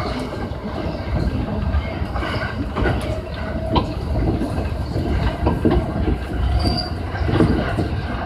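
Electric commuter train running along the track, heard from the driver's cab: a steady rumble with irregular clacks from the wheels and a few short squealing tones from the wheels on the rails.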